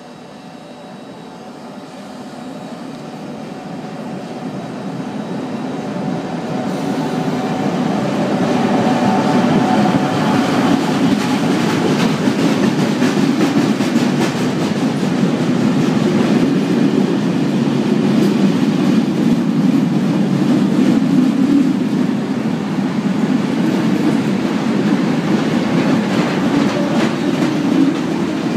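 Railway works train with crane wagons approaching and rolling slowly past, getting steadily louder over the first eight seconds and then holding a steady rumble. Clacks of its wheels over the rails sound throughout.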